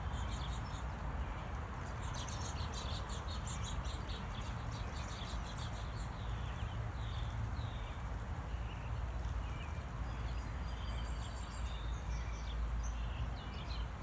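Small wild birds chirping, many short high calls overlapping in the first half and more scattered later, over a steady low rumble.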